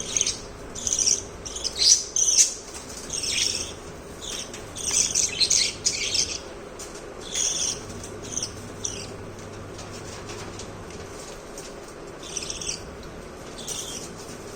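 Budgerigars chirping in many short, high calls, busy through the first half and more scattered toward the end.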